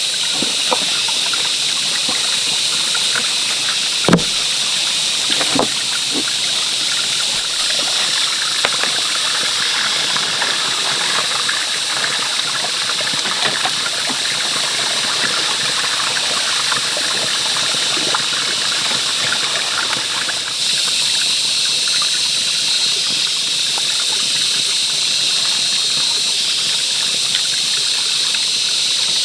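Running water, a steady trickling, gushing flow, with a couple of sharp knocks about four and six seconds in.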